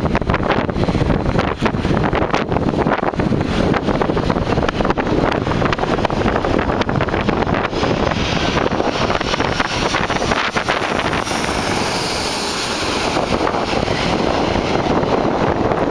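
Wind buffeting the microphone over surf, with the far jet noise of the Airbus A340 swelling into a hissing roar from about eight seconds in, strongest a few seconds later.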